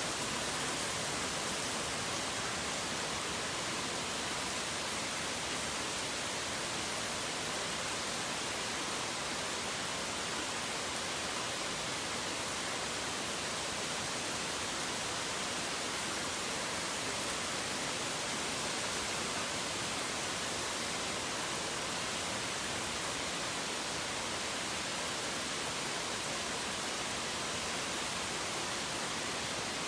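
Steady rain, an even, unbroken hiss with no thunder or birdsong.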